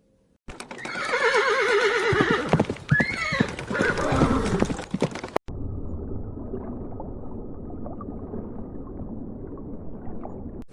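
A horse whinnying: a loud neigh with a quavering pitch that falls, ending in an abrupt cut about five seconds in. It is followed by a muffled, low rumbling noise with faint knocks.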